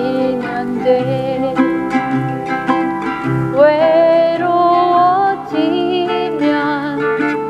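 Korean folk ballad: a fingerpicked acoustic guitar under a woman's sung melody, with long held, wavering notes a few seconds in.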